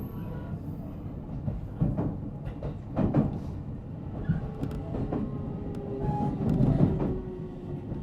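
Running noise of a JR Central 313 series electric train heard from inside the motor car MoHa 313-7: a steady rumble with heavy knocks from the wheels over rail joints. A faint motor tone slowly falls in pitch as the train slows.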